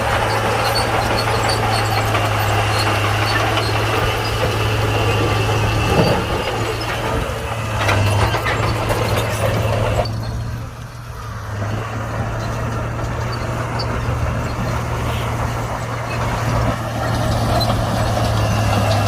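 Komatsu D41P crawler bulldozer's diesel engine running steadily, with a few sharp clanks. A little past halfway it eases off for a moment, then picks up again.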